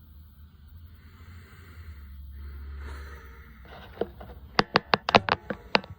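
A low rumble, then from about four seconds in a quick run of sharp clicks and knocks, about ten in two seconds, as of hard objects being handled.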